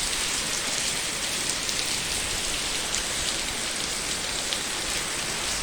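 Steady rain falling, a continuous even hiss of drops hitting the ground and surfaces, with small scattered drip ticks.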